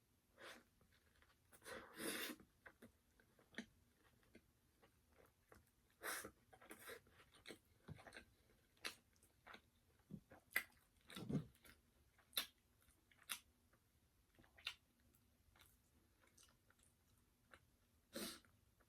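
Crispy spicy fried chicken being chewed, mostly quiet chewing broken by scattered sharp crunches, the biggest about 2, 6, 11 and 18 seconds in.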